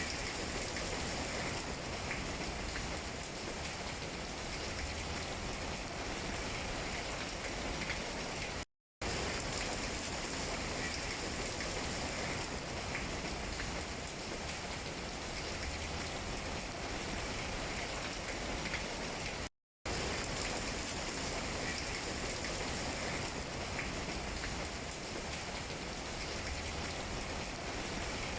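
Steady rain falling on tree leaves, an even hiss of drops with faint scattered taps. The sound cuts out to silence briefly twice, about 9 and 20 seconds in, where the recording loops.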